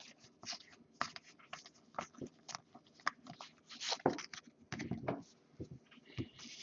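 Trading cards and their packaging handled at close range: irregular light clicks, scratches and rustles as cards are slid and flipped.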